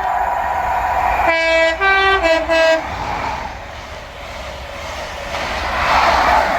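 Class 43 HST power car sounding its two-tone horn in three quick blasts, alternating low and high notes. The rushing noise of the passing train then swells, loudest near the end.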